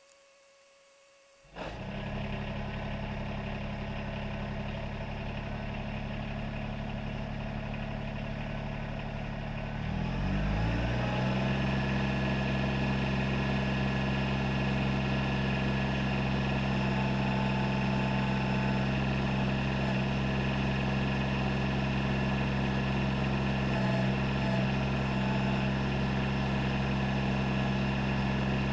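Kubota BX23S tractor's three-cylinder diesel engine running, coming in abruptly about a second and a half in. Around ten seconds in the revs rise and the engine settles into a steady, louder run at the higher speed.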